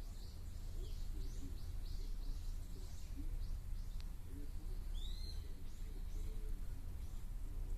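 Wild birds calling: a quick run of short, high, falling chirps over the first three seconds, another high call about five seconds in, and lower, wavering calls throughout. A steady low hum runs underneath, and there is one sharp click about four seconds in.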